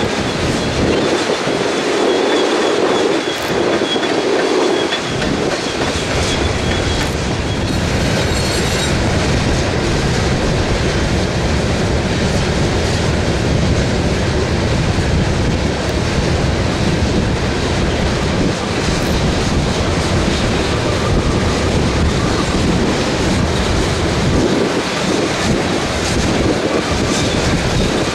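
Freight train of covered hopper cars rolling past, the steady rumble and clatter of steel wheels on rail, with a thin high wheel squeal through the first several seconds.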